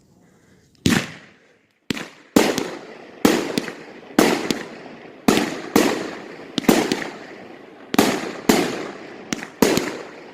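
Fireworks going off as a rapid run of about fifteen sharp bangs, each with a ringing tail. One bang comes about a second in, then after a short pause they follow in uneven pairs roughly every second.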